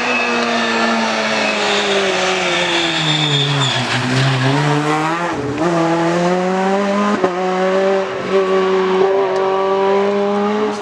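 Rally car engine at full race revs, falling in pitch as the car slows for a corner over the first few seconds, with a brief high squeal about three seconds in. About five seconds in the note breaks off, then the engine climbs again and holds a high, hard-working note as the car accelerates away.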